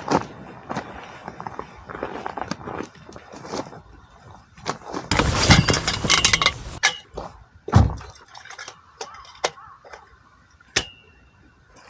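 A series of knocks and clinks from things being handled, with a longer rustling, clattering stretch about five seconds in, a heavy thump shortly after, and a sharp click with a brief metallic ring near the end.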